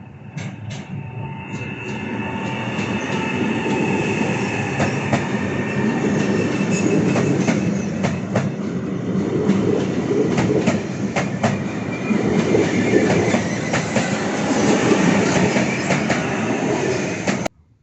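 Train passing, growing louder over the first few seconds, with sharp clacks of wheels over the rail joints and a faint high wheel squeal. The sound cuts off abruptly near the end.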